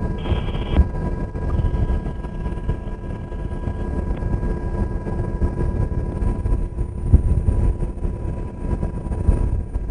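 UH-60 Black Hawk helicopter in flight, heard from inside the cabin: a steady low rumble from the rotors and turbines with a few steady whining tones over it, and a short higher tone near the start.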